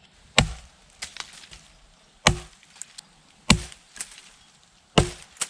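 Sharp chopping blows on wood: four strikes roughly a second and a half apart, with a lighter knock just after the last and faint taps in between, as sticks are cut or knocked into shape.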